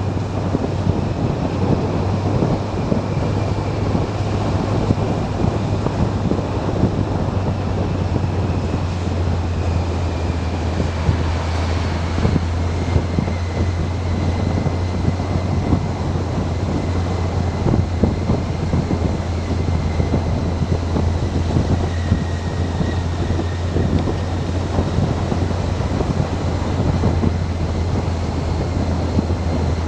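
Motorcycle riding at a steady speed: a steady low engine drone under heavy wind noise on the microphone.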